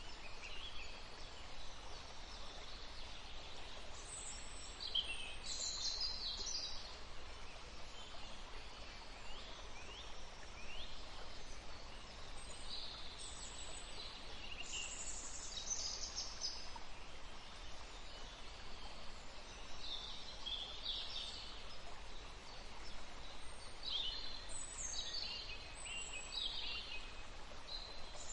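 Songbirds chirping and singing in short bursts and quick trills, several calls overlapping, over a steady background hiss.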